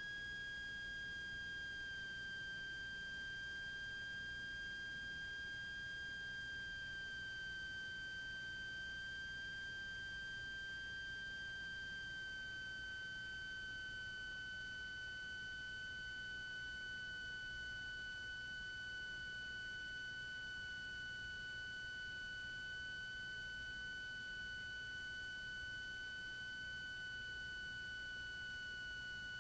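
Steady high electrical whine with a couple of overtones, sinking very slightly in pitch, picked up on a light aircraft's intercom audio feed with the engine noise itself barely present.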